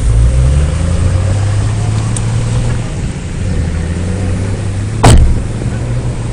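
Off-road vehicle engine running steadily at low revs, with one loud thump about five seconds in.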